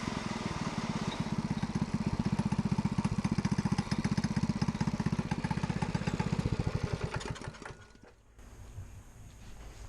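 Small go-kart engine running with a steady, rapid putter. It fades away about eight seconds in.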